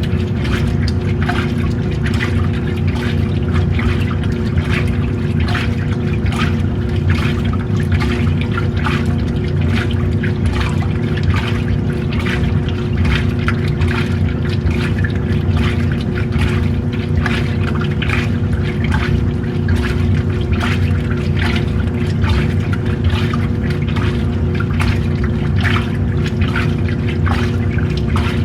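Washing machine running a wash: water sloshing and splashing over a steady motor hum.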